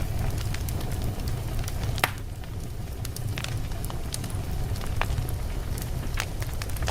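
Wood fire burning in a fireplace, a steady low rumble of flames with scattered sharp crackles and pops from the burning logs, the loudest pop about two seconds in.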